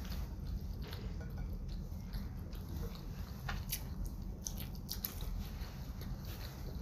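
Close mouth sounds of a person biting into and chewing raw salmon sushi: soft, wet clicks and smacks, most of them a few seconds in. A steady low hum runs underneath.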